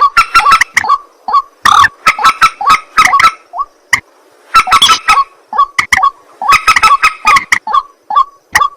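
White-breasted waterhen (ruak-ruak) calling: loud, harsh, honking notes repeated rapidly in dense bursts, with a short pause a little under halfway through.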